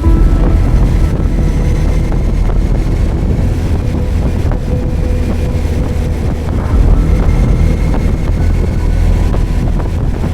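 Wind rushing over the microphone, with the inline-four engine of a Suzuki GSX1250FA motorcycle running underneath while it is ridden. The low rumble swells a little about seven seconds in.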